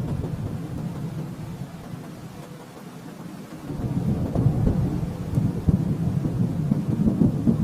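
Distant thunder rolling: a continuous low rumble that eases off slightly around the middle, then swells again about four seconds in.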